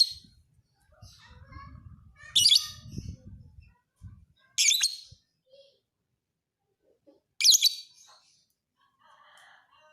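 Lovebird calling in four loud, shrill bursts a couple of seconds apart, with softer chirps between them. A low rumble runs under the first half.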